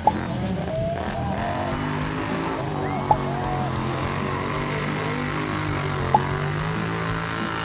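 Off-road side-by-side or ATV engines running steadily, the pitch shifting slowly up and down. Three short sharp ticks come about three seconds apart.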